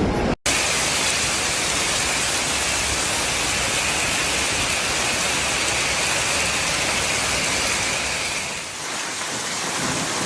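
Steady, even wash of pouring water from a thunderstorm downpour, starting abruptly after a brief dropout and easing slightly near the end.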